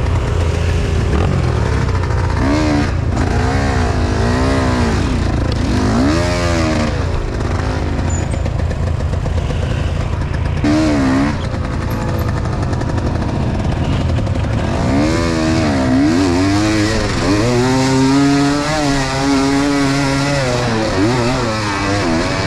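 Enduro motorcycle engine running under load, its revs repeatedly rising and falling in short surges, with a longer stretch of revving in the second half.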